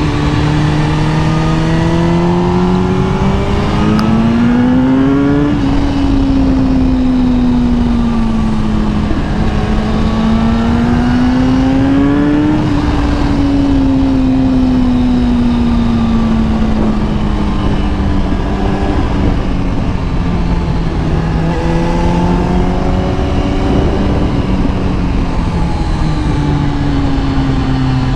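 Kawasaki ZX-10R's inline-four engine under way, its note rising and falling several times as the throttle is opened and eased off, over a steady rush of riding noise.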